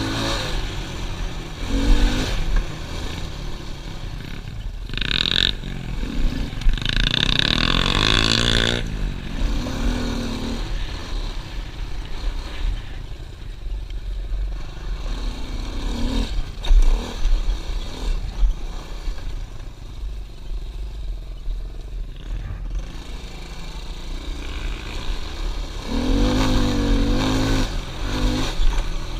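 Pit bike engine running while being ridden, revving up and easing off several times, with the engine loudest near the start, about a third of the way in, and near the end.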